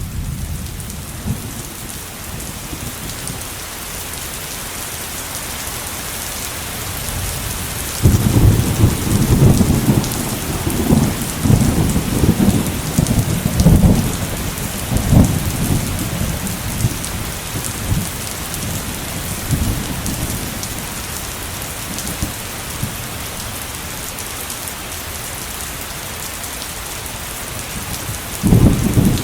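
Heavy rain falling steadily in a thunderstorm. A loud rolling thunder rumble breaks in suddenly about eight seconds in, swells in several peaks and fades away, and a fresh thunderclap begins near the end.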